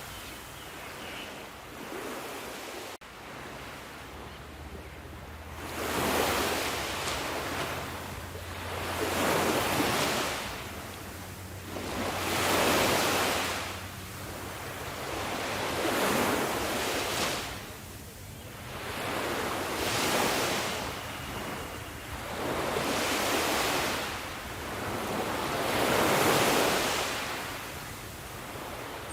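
Sea waves breaking on a shore, the surf swelling and washing back about every three to four seconds.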